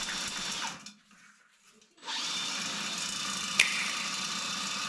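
Electric drain-cleaning machine spinning a flat shaft cable to clear a clogged bathroom drain, running with a steady whine. It stops for about a second shortly after the start, then starts again, and a sharp click sounds about halfway through.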